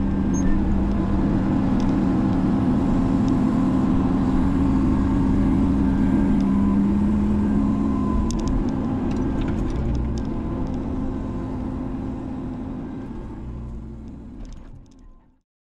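Menzi Muck spider excavator's diesel engine running steadily, with a few faint clicks, fading out near the end.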